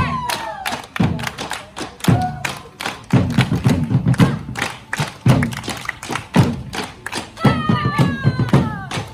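Percussion for a dance performance: deep drum thumps roughly once a second under quick, sharp taps. Two falling cries, one at the start and one about seven and a half seconds in, ride over the drumming.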